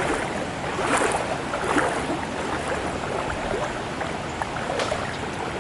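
Floodwater rushing steadily across a flooded pasture, a constant noisy rush, with a few short sharp pops about a second in and near the end.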